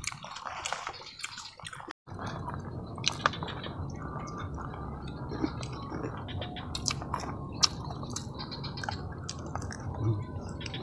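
Close-up chewing and eating sounds, with many small scattered clicks, from people eating grilled snail satay and rice by hand. The sound drops out briefly about two seconds in.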